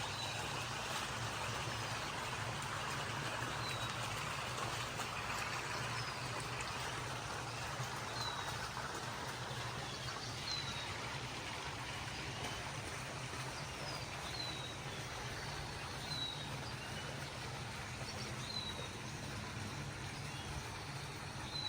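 Outdoor ambience of steady noise and a low hum, over which a small bird repeats a short falling chirp about every two seconds.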